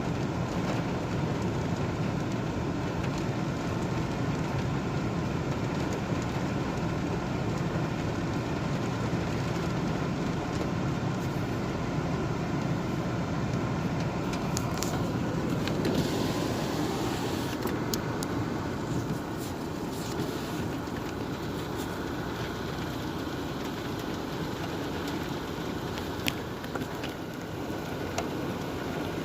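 Steady low rumble of a moving car, road and engine noise, with a few sharp clicks about halfway through.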